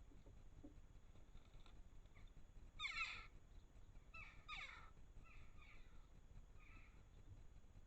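A bird calling in short, downward-sliding calls: the loudest about three seconds in, two more just after four seconds, then a few fainter calls, over near-silent background.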